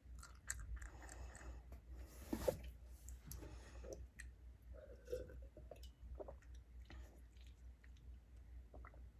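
A person chewing fast food close to the microphone, with soft wet mouth smacks and small clicks. The loudest smack or bite comes about two and a half seconds in.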